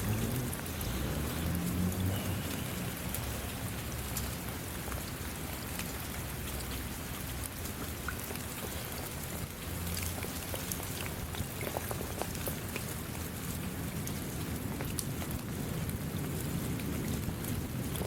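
Steady rain falling, with many individual drops hitting close by as sharp ticks scattered through the steady hiss.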